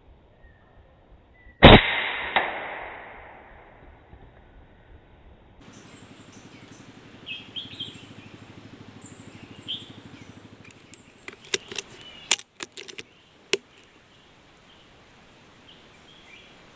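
A single shot from a PCP air rifle, a sharp crack just under two seconds in, then a quieter crack about half a second later. Later, birds chirp and a quick run of sharp clicks sounds.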